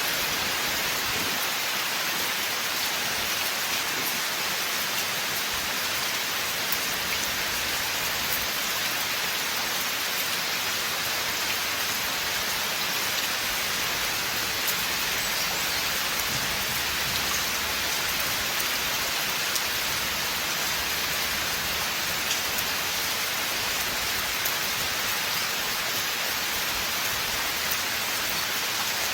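Steady rain falling in a forest: a dense, even hiss of rain with scattered drops ticking through it.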